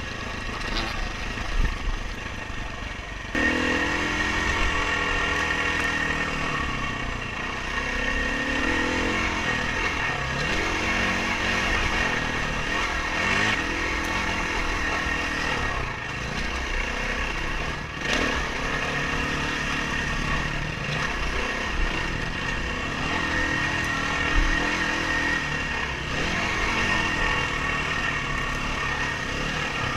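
Dirt bike engine revving up and down over and over as the throttle is worked, getting louder about three seconds in.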